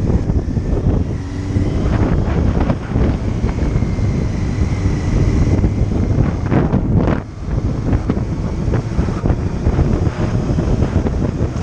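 Heavy wind noise on the microphone of a moving motorcycle, with the bike's engine running underneath. It dips briefly about seven seconds in.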